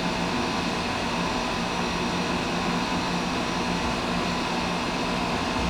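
Steady mechanical hum with a few constant tones, like a running fan or similar machine.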